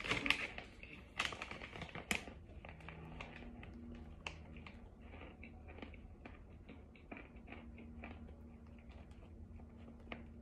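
Chalky cornstarch chunks being chewed close to the microphone: a quick run of small crisp crunches and clicks, heavier in the first couple of seconds, then lighter and steady.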